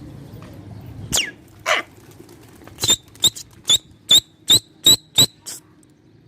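Pigeon keeper's whistle driving the flock up: one falling whistle about a second in, then a run of about nine short, sharp chirping blasts, roughly three a second.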